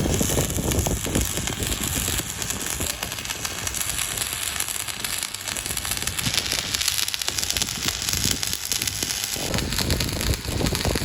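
Steady crackling and sputtering from electric welding on the steel sheet of a fuel tank, running without a break.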